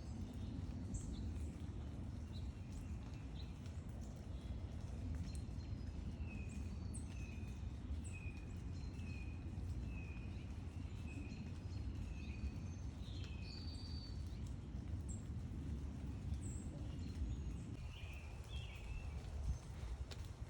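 Backyard birds chirping and calling over a steady low background rumble. One bird repeats a short note about once a second, some eight times in a row, while others give scattered high chirps.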